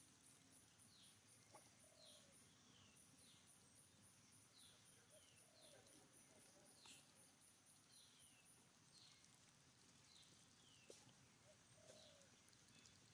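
Faint outdoor ambience at near silence: birds calling in short falling chirps, often in pairs, about once a second, with a high, even pulsing in the background that stops about two-thirds of the way through.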